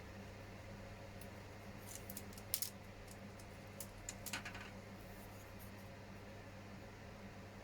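Faint clicks and ticks of small injection-moulded plastic model-kit parts being handled and fitted together, a short cluster around the middle, over a steady low hum.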